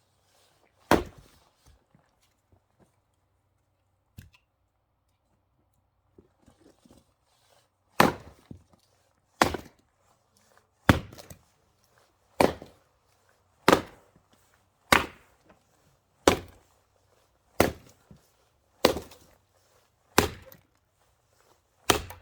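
Axe splitting firewood: one sharp strike about a second in, then, after a pause, a steady run of about eleven strikes roughly every second and a half, some followed by a lighter knock.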